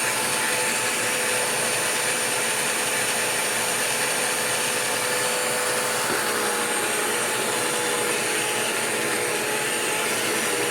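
Bissell CleanView Swivel vacuum cleaner running steadily: an even motor noise with a steady high whine. It is being run to hear whether it is still making the racket it had been making.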